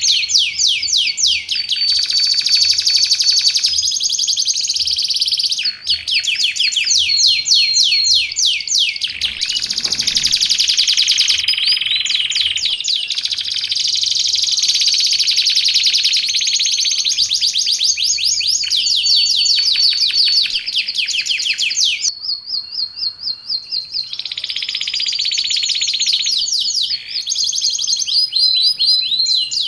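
Domestic canary singing without pause: long runs of fast, high-pitched trills and rolls, broken by a few held whistled notes.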